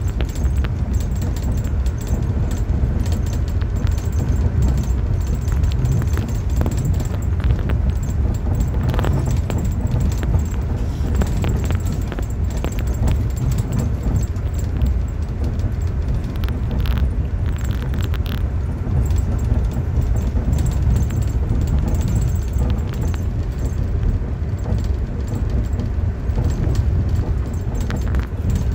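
Steady low rumble of an Amtrak Northeast Regional passenger coach running at speed, heard from inside the car, with occasional light clicks and rattles.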